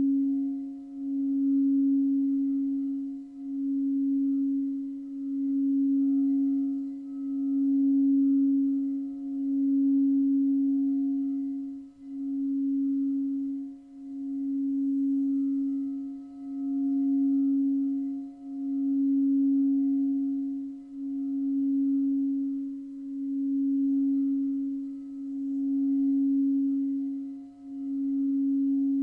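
Singing bowl sounding one sustained low tone with a few faint overtones. Its loudness swells and dips about every two seconds.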